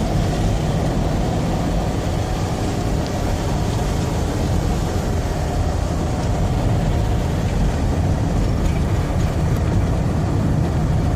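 Camper van running steadily, heard from inside the cab: a constant low engine and road rumble as it climbs a mountain road.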